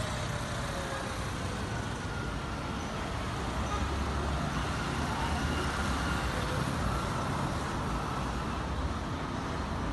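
Airbus A320 passenger cabin noise: the steady roar of the jet engines and airflow heard from inside the cabin, with a deep rumble that grows stronger a few seconds in and faint engine tones that slowly fall in pitch.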